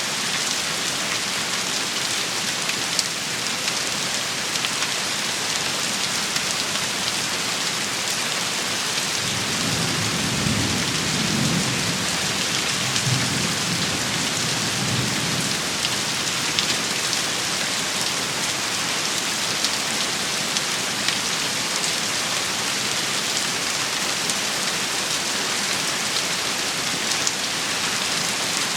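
Steady heavy rain shower pattering on surfaces, with scattered sharper drop ticks. A low rumble of thunder rolls for about seven seconds, starting some nine seconds in.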